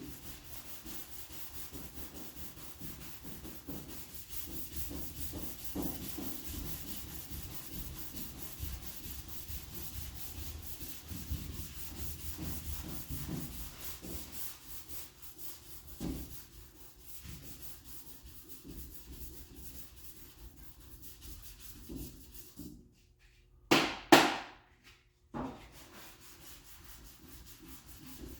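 Hand sanding block with 400-grit paper rubbing back and forth over high-build primer on a car body panel, a steady rasping scrape. Near the end the sanding stops briefly for a few loud sharp knocks.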